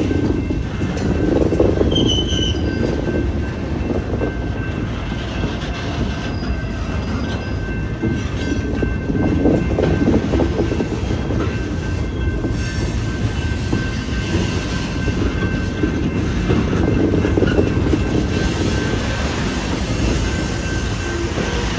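Pioneer Valley Railroad freight train rolling past, a steady loud rumble of wheels on rail. There is a brief high squeal about two seconds in.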